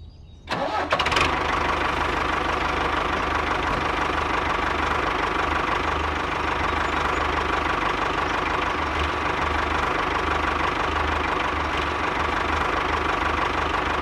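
Small diesel engine starting about half a second in and then running steadily.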